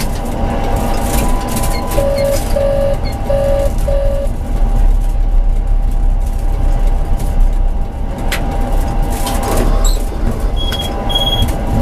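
Tram running with a steady rumble and a thin constant whine, the low rumble growing stronger about four seconds in. Four short beeps come about two seconds in, and two short high beeps near the end.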